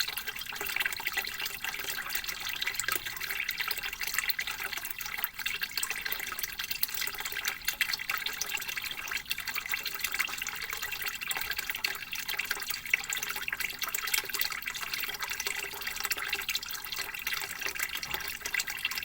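Water flowing steadily from a bamboo pipe, a constant trickling splash with no pauses.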